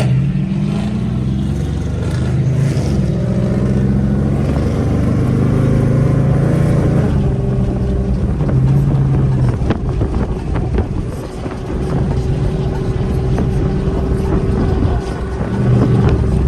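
Car V8 engine running, its revs rising and falling a few times.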